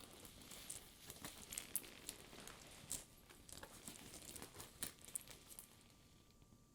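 Hands handling and rubbing a faux leather purse, giving soft crackly rustling with many small sharp clicks as the sticky leather surface flexes and peels from the fingers; it dies down about five and a half seconds in.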